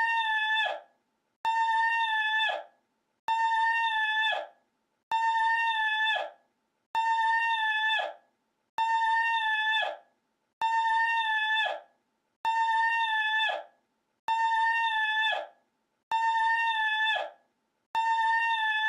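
A man's shrill, high-pitched vocal cry, one sustained note that drops off at the end. The same clip is looped about ten times, roughly every two seconds, with short silences between.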